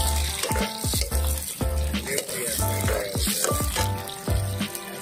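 Sliced onions sizzling as they fry in hot oil in a wok, under background music with a steady beat and bass.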